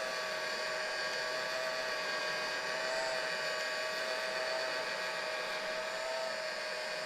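Heat gun running steadily on its low setting: a constant blowing rush with a steady whine.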